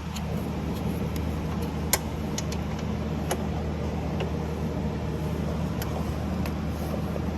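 A steady low mechanical hum with an even noise over it, coming in suddenly at the start, with a few light sharp clicks scattered through it.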